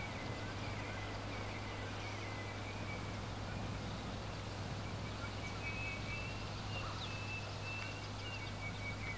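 Outdoor ambience of birds chirping, with short high calls repeating over a steady background hiss and a low hum.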